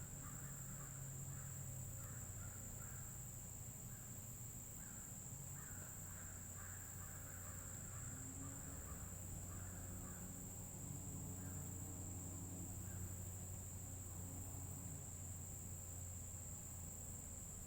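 Faint outdoor ambience: distant birds calling in a quick run of short, repeated calls that die away after about ten seconds, over a steady high-pitched hiss.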